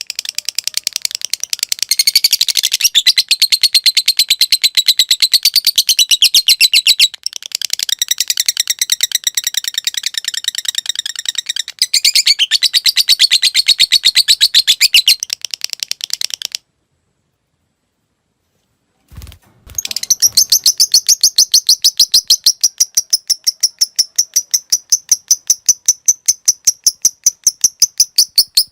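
Lovebird's long ngekek: a fast, unbroken chatter of high, ticking notes (the 'ngetik' style). Past the middle it breaks off for about three seconds, with a couple of low knocks, then starts up again.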